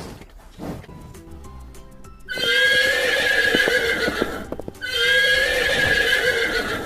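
Horse sound effect: a few hoof clip-clops, then two long whinnies, the first starting a little over two seconds in and the second about five seconds in.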